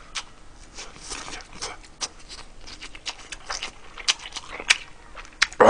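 Close-miked chewing of a fried Spam slice, open-mouthed: an irregular scatter of soft wet clicks and lip smacks, with a few sharper ones about four seconds in.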